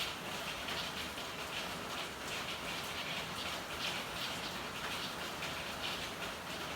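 Steady rain falling, with a dense, uneven patter of drops hitting surfaces.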